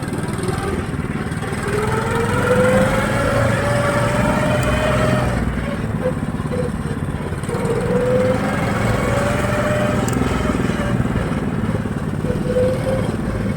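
Small single-cylinder-style engine of a Tofalar motorized snow tow running under way, its whine rising in pitch over the first few seconds, then dipping and coming back as the throttle and load change on the trail.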